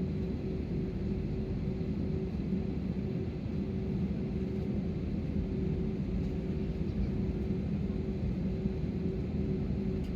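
Airbus A320 cabin noise after landing: the airliner's engines running at idle as it taxis, a steady rumble with an even low hum.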